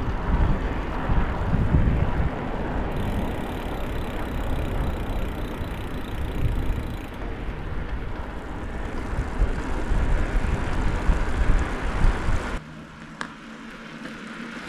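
Wind buffeting the microphone outdoors: a loud, steady rushing noise with heavy low rumble, which drops abruptly to a much quieter hush about twelve and a half seconds in.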